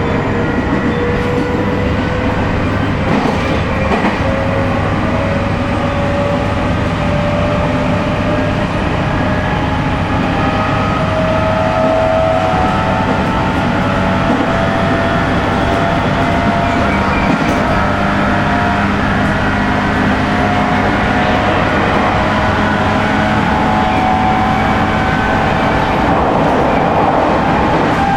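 A 719 series 5000-subseries electric train running, with the whine of its MT61 traction motors and gears rising steadily in pitch as the train gathers speed, over the rumble of the wheels on the rails.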